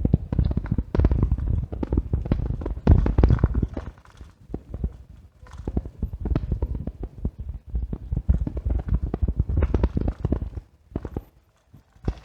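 Irregular rattling and knocking picked up by a camera riding on a moving bicycle, jolted by the road surface. It comes in dense runs of knocks with brief lulls about four seconds in and again near the end.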